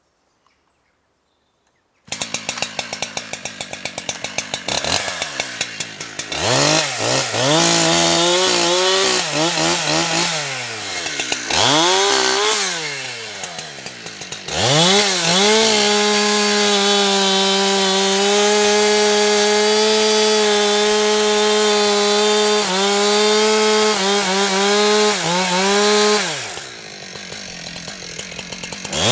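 Two-stroke chainsaw coming in about two seconds in at a pulsing idle, revved up and down several times, then held at high revs, typical of cutting into a tree trunk, before it drops back to idle near the end and revs up again.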